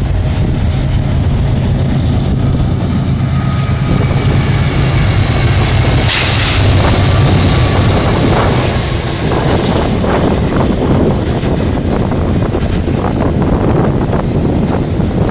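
Double-stack freight trains passing close by: a BNSF diesel locomotive's engine drones, then wheels knock and clatter as the stack cars roll past. Wind buffets the microphone.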